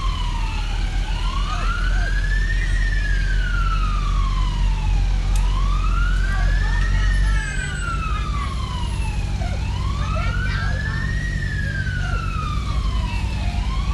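A siren wailing in a slow rise and fall, each sweep taking about four seconds and repeating about three times, over a steady low vehicle rumble that drops off about seven seconds in.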